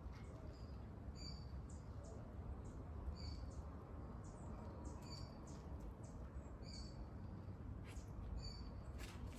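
A small bird chirping over and over, a short high chirp every second or so, over a steady low rumble.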